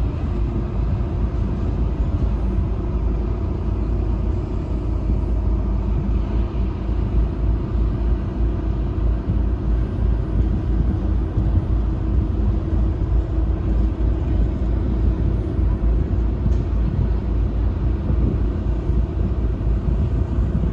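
A ship's engine running, a steady low rumble that holds evenly throughout.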